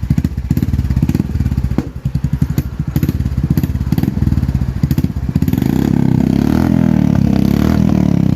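Royal Enfield Hunter 350's 349 cc single-cylinder engine breathing through a newly fitted Akrapovic aftermarket exhaust. It thumps at idle with short throttle blips, then is held at a steady higher rev from about five and a half seconds in.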